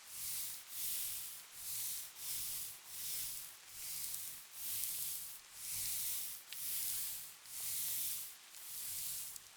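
Rhythmic rubbing strokes of makeup remover being massaged over the skin, about eleven in all, a little over one a second, each swelling and fading.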